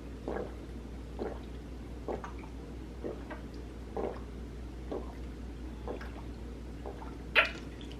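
A person gulping down a drink, one swallow about every second in a steady rhythm, with a louder short sound near the end.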